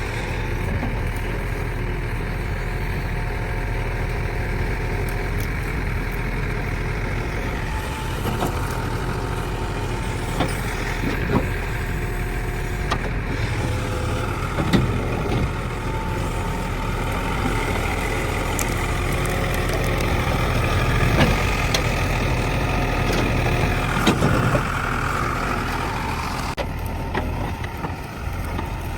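JCB backhoe loader's diesel engine running steadily under work, with a few sharp knocks. A higher whine joins in about halfway and drops away near the end.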